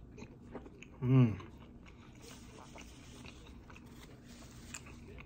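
Close-up eating sounds: soft chewing and lip-smacking with small mouth clicks, and a short, low hummed vocal sound from the eater about a second in.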